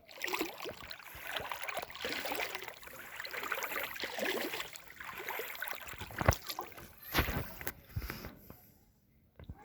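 Floodwater splashing and sloshing, likely from wading or a boat moving through it, with several sharper splashes or knocks a little past the middle.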